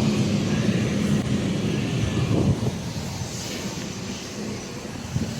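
Car driving: steady engine hum and road noise, easing off about two and a half seconds in.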